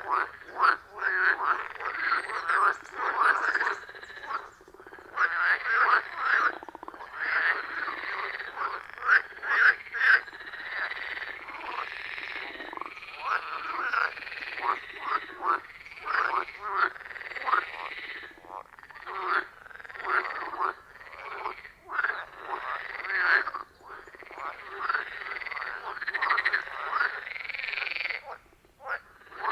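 Chorus of frogs calling over one another at a pond: dense, overlapping croaks in quick pulses, with a few brief lulls.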